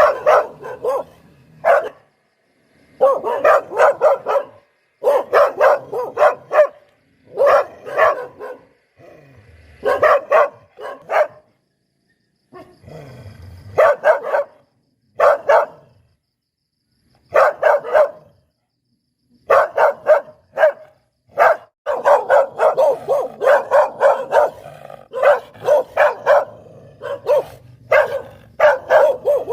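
Poodle barking in rapid volleys of short, sharp barks, several a second. The runs last a second or two and are separated by brief pauses.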